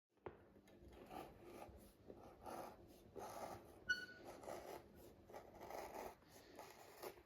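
Knife trimming excess leather from a boot upper: faint, repeated scraping cuts at irregular intervals, with a brief metallic click about four seconds in.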